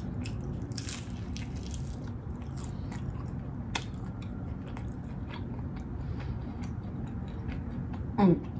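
A person chewing a crispy fried egg roll with chicken, bacon and avocado close to the microphone: a run of small crunches and wet mouth sounds. Near the end a short 'mm' from her voice.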